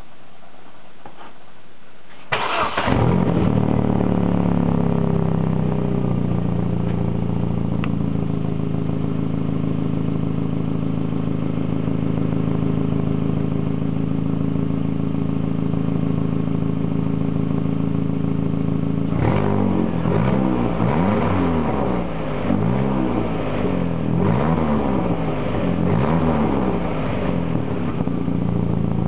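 Opel Astra Bertone coupe's 2.0-litre turbocharged four-cylinder running with no exhaust fitted. It starts about two seconds in, its pitch falls and settles into a steady idle, then it is revved in a string of quick blips near the end before dropping back to idle.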